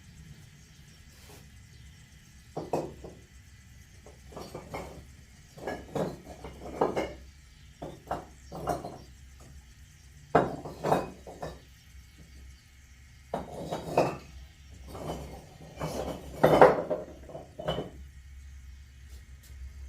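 Ceramic flowerpots clinking and knocking against each other or against a hard surface as they are handled: about a dozen irregular ringing knocks with short pauses between, the loudest near the end.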